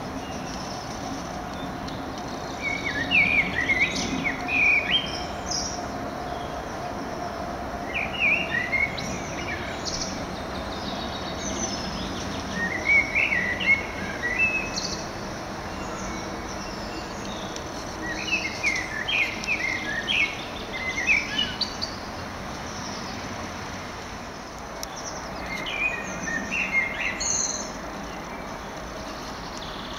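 A songbird singing short phrases of quick chirping notes, repeated every few seconds, over a steady background hiss.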